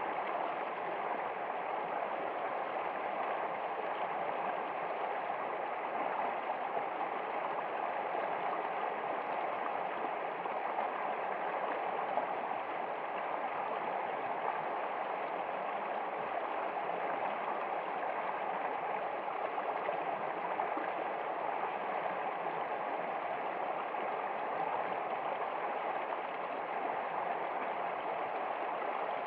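Stream water flowing steadily, an even rushing noise that never lets up.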